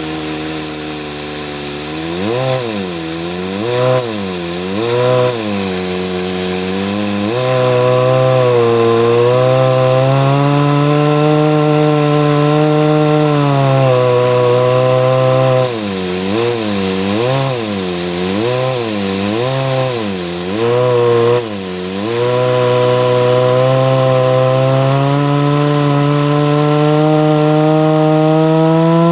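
A Lego vacuum engine running with a continuous buzzing hum. Its pitch swings up and down about once a second for several seconds at a time, then holds steady, and a high whine cuts in and out above it.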